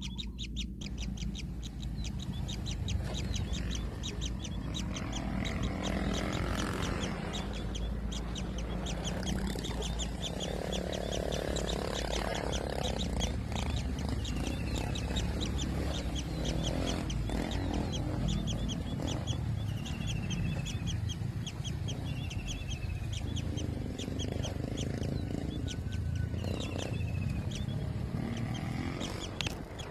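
Kingfisher nestlings giving harsh, rasping begging calls again and again, over a fast, steady series of high ticking notes and a few short falling whistles.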